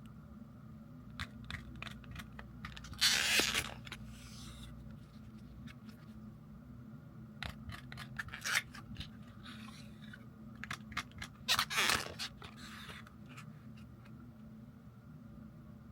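Scattered small clicks and scrapes, with two short rustling bursts a few seconds in and again near the end, over a steady low hum.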